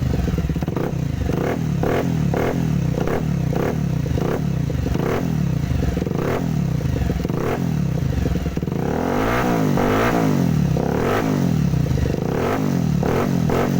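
Bajaj Pulsar 180 motorcycle's single-cylinder engine through a custom aftermarket exhaust, revved in repeated throttle blips, the pitch rising and falling about once a second, with a run of quicker blips just past the middle.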